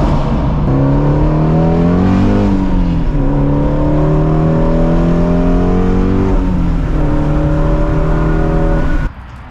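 Ford Shelby GT350's 5.2-litre flat-plane-crank V8 running steadily, with one brief blip of revs about two seconds in. The engine sound cuts off suddenly near the end.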